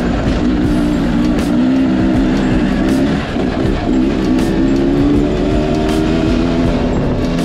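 Dirt-bike engine revving up and down, with music that has a steady beat.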